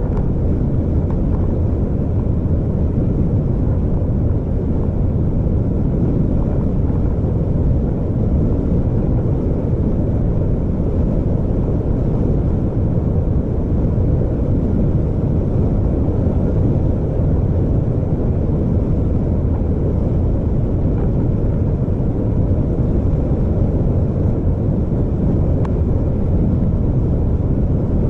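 A vehicle driving along a road: a steady low rumble of engine and tyre noise that holds even throughout.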